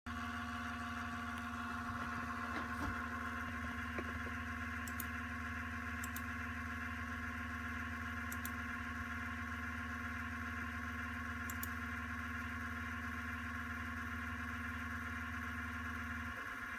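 Steady electrical hum and whine made of several fixed tones over a low drone, with a few light clicks between two and four seconds in.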